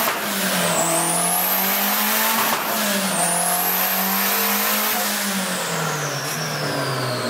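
Turbocharged B20V four-cylinder engine of a Honda Integra running on a chassis dyno: its pitch climbs, drops back twice, then winds down over the last couple of seconds. A high whine rises and falls along with it.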